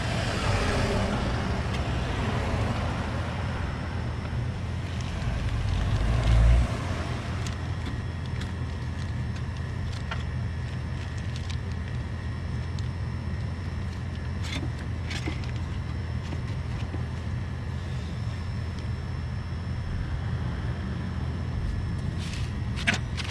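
A steady low mechanical hum, with a heavy low thump about six seconds in and a few sharp clicks later on.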